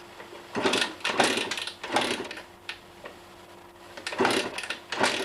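Dirt bike's small single-cylinder engine being kicked over several times without catching: a string of short mechanical whirring bursts, one per kick, with no steady running between them. The bike won't start even with the choke and fuel on.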